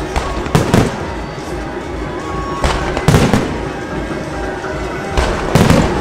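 Aerial fireworks bursting: loud bangs in clusters about every two and a half seconds, with steady crackle in between.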